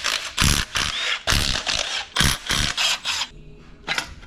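Workshop tool noise: about seven short rattling bursts in quick succession over three seconds, then a single sharp click near the end, as the clutch is worked off the engine.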